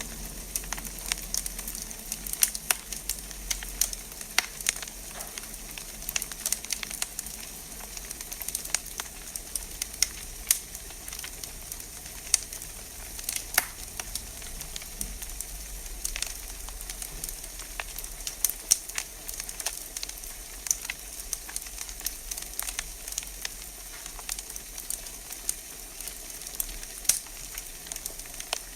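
Wood fire burning in a fireplace, crackling with frequent, irregular sharp pops over a steady hiss.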